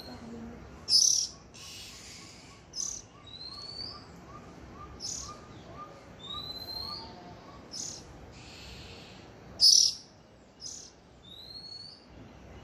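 Birds calling: short rising whistles repeat every couple of seconds, mixed with sharp high chirps, the loudest about a second in and again near the ten-second mark. A faint rapid run of ticks sounds underneath in the first half.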